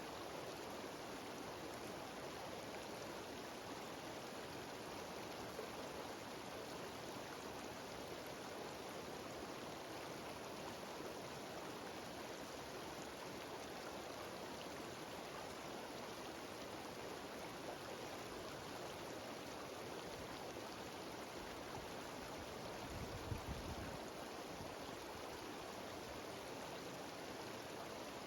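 Cascading mountain stream and waterfall rushing steadily and evenly. A brief low rumble rises about 23 seconds in and fades within a second.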